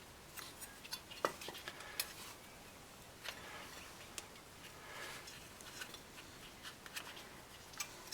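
Faint, scattered metallic clicks and taps of rear brake caliper hardware and slide pins being handled, with a sharper click about a second in.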